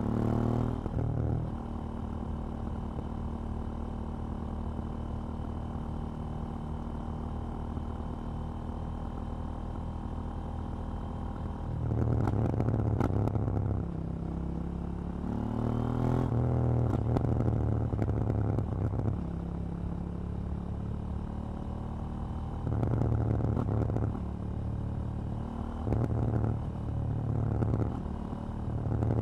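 KTM 790 Duke motorcycle's parallel-twin engine and exhaust on the move. It holds a steady drone for about ten seconds, then the throttle opens several times, with a rising rev about halfway through and shorter pulls near the end.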